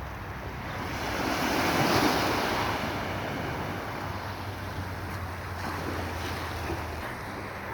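Sea waves washing in, one wave swelling up and breaking about two seconds in, with wind buffeting the microphone.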